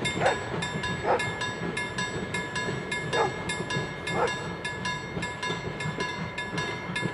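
A steam-hauled museum train of wooden-bodied carriages rumbling away along the track while a level-crossing warning bell rings steadily with rapid, even strokes. A few short, louder falling calls cut in now and then.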